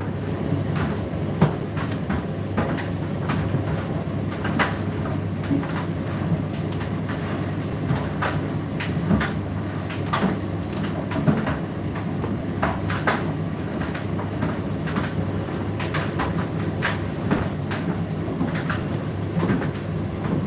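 Indesit IDC8T3 condenser tumble dryer running: a steady motor-and-fan hum with the load tumbling in the drum, giving frequent irregular knocks and clicks.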